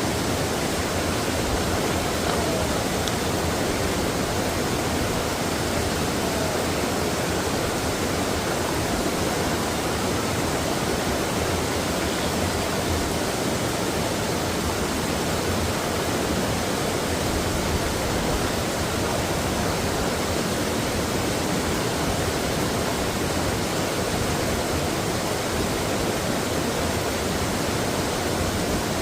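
Mountain valley stream, water flowing steadily with a constant rushing sound.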